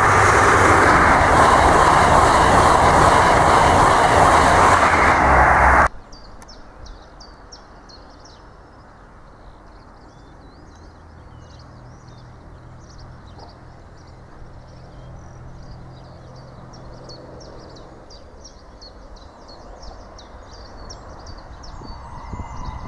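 InterCity 125 high-speed train passing close by: a loud, steady rush of wheels and air that cuts off suddenly about six seconds in. After that, birds chirping over a faint low rumble that grows a little near the end.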